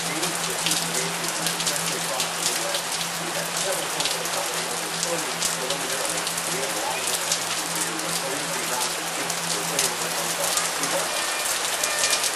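Heavy rain pouring down and splashing onto waterlogged pavement: a dense steady hiss packed with sharp drop impacts.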